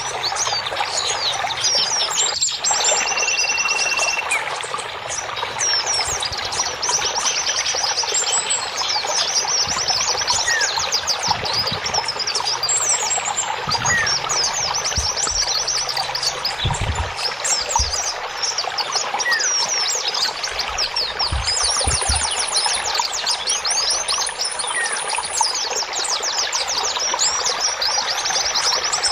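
A chorus of many songbirds chirping and trilling over the steady rush of running water, with a few high, sustained whistled notes now and then.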